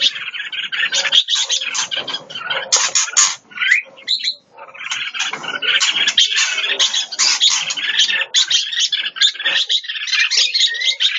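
Red-whiskered bulbuls calling, a dense stream of short, rapid chirps with a brief lull about four seconds in.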